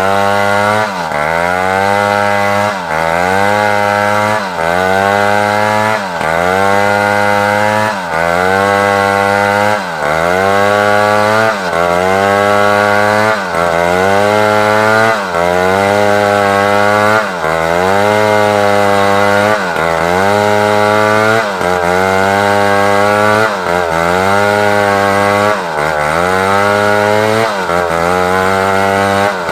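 Large chainsaw running at high revs while ripping timber lengthwise. Its engine pitch dips and recovers about every one and a half seconds as the bar is worked through the cut.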